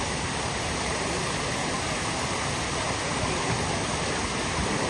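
Steady rush of running water, an even hiss and rumble without breaks.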